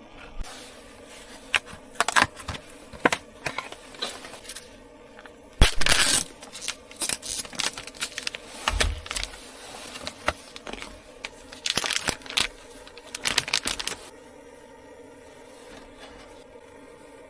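A run of handling noises: irregular clicks, scrapes and rustling, loudest in short clusters around the middle and near the end, then stopping, leaving a faint steady hum.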